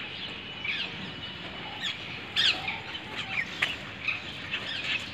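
Small birds chirping: short, high calls scattered throughout, the loudest about two and a half seconds in, over a steady outdoor background noise.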